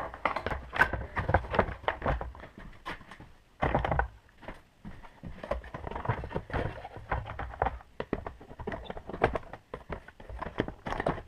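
A plastic compressor shroud being handled and fitted back over the air compressor: irregular plastic clicks, taps and knocks, with no motor running.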